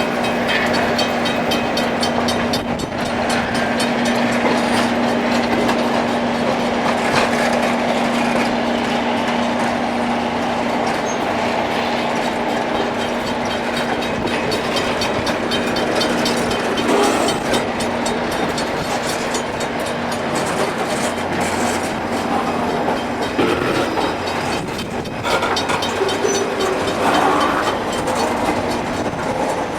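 Rail grinding machine working along the track: a loud, steady grinding noise of stones on the railhead, with a steady low hum that fades out about two-thirds of the way through.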